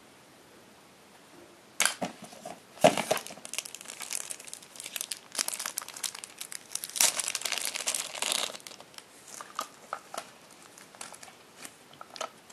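Packaging crinkling and rustling as it is handled. It starts about two seconds in and thins out to scattered clicks and taps near the end.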